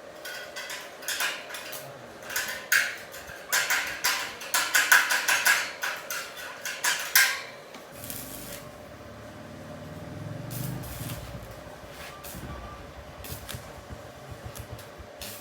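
A rapid, irregular run of metal clanks and knocks, as of metal pieces being handled and knocked together, for about seven seconds, then a softer low rumble with a few scattered clicks.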